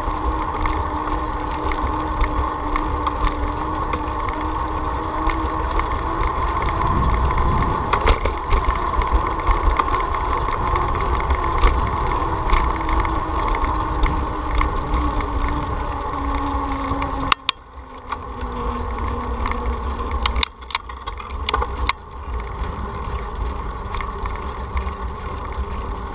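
Wind rumble on the microphone and road noise of a bicycle being ridden, with a steady hum that slides lower about two-thirds of the way through. The noise drops out suddenly for a moment a few times near the end.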